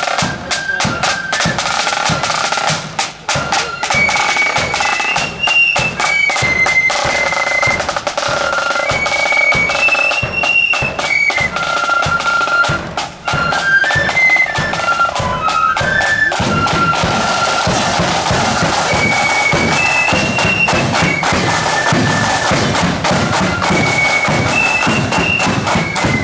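Marching band playing a tune: a high, shrill melody moving in steps over a steady beat of drum strikes.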